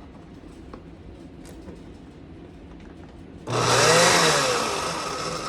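An electric kitchen chopping appliance switches on suddenly about three and a half seconds in and runs in a short burst, its motor whine rising and then falling.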